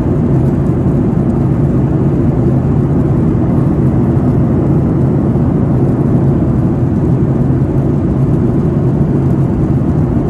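Steady, loud drone of an airliner's jet engines and airflow, heard inside the passenger cabin in flight.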